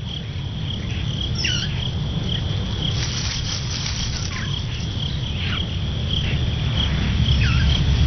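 Night-time insect chorus: crickets trilling steadily, with a few short falling calls from some other animal and a low rumble underneath that grows a little towards the end.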